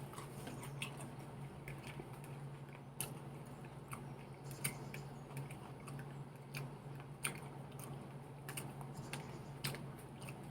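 Close-miked chewing of a salad: soft wet crunches and mouth clicks at irregular intervals, over a steady low hum.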